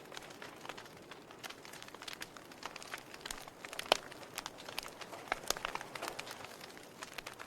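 Wood fire crackling: irregular sharp pops and snaps over a low steady hiss, with one louder pop about four seconds in.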